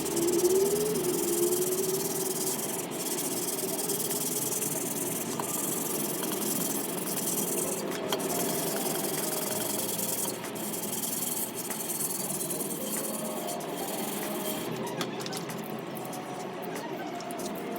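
Power polisher running with its buffing wheel worked against a stainless steel motorcycle muffler: a steady abrasive hiss over a motor hum whose pitch wavers as the tool is pressed and moved.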